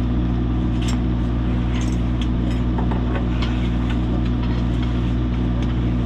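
An engine idling steadily, with a few light metallic clinks and taps over it.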